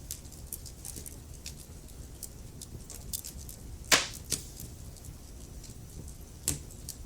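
Wood fire burning in a fireplace, crackling steadily with many small snaps over a low rumble of the flames. One loud pop about four seconds in, with a smaller one right after it and another near the end.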